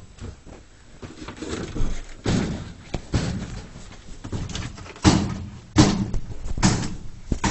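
A string of irregular knocks, thumps and bangs, about half a dozen loud ones: objects and furniture being bumped and shoved around in a small cluttered room.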